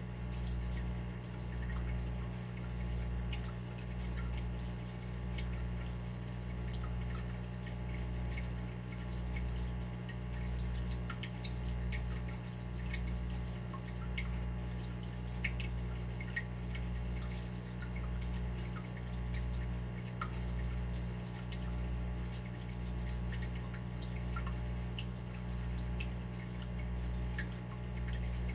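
Water dripping, scattered small drops at irregular intervals, over a steady low hum that swells and fades about once a second.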